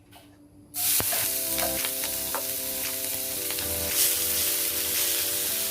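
Food sizzling in a hot oiled pan as it is stir-fried, starting suddenly under a second in and continuing steadily, with background music.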